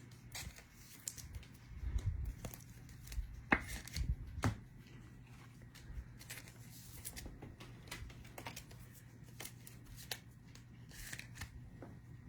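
A trading card pack wrapper torn open and crinkled, with scattered small crackles as the cards are handled, over a faint steady hum.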